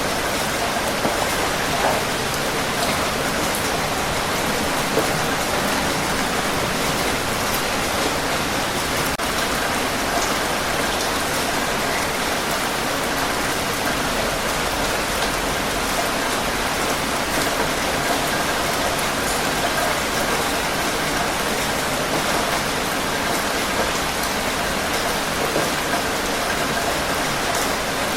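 Steady, heavy rain falling on hard surfaces, a dense even hiss with scattered sharper drops.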